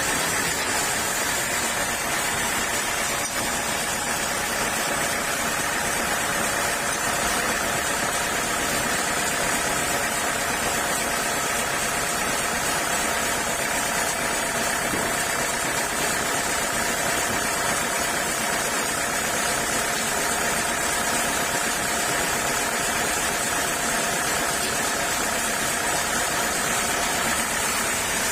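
Sawmill saw machinery running steadily, a continuous mechanical drone with a steady high whine and no change in pace.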